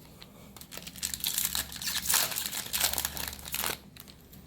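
Plastic-foil booster pack wrapper crinkling and tearing as it is opened and handled, for about three seconds.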